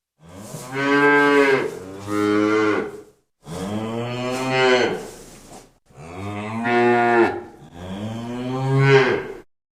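Cow mooing: a string of long, drawn-out moos, each rising and then falling in pitch, with short breaths between them.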